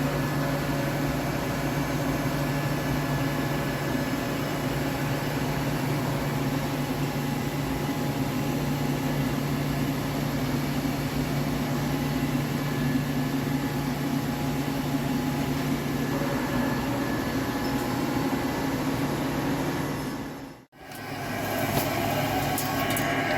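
Heavy CNC lathe turning a steel forging: a steady machine hum with a gritty cutting hiss over it. Near the end the sound cuts out for a moment and comes back with a different tone and a few sharp clicks.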